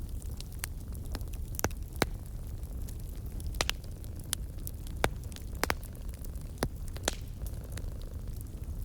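A cat purring in a steady low rumble, mixed with a wood fire crackling: irregular sharp pops and snaps, the loudest about two and five seconds in.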